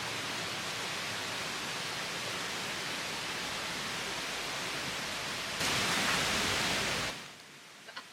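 A mountain stream rushing steadily. It jumps louder about five and a half seconds in, then falls away abruptly near the end.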